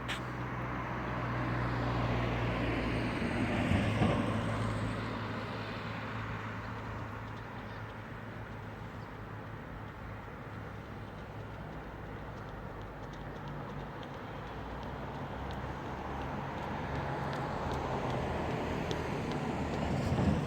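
Motor vehicle running with a steady low hum and a rushing noise that swells about four seconds in and again near the end, like traffic passing.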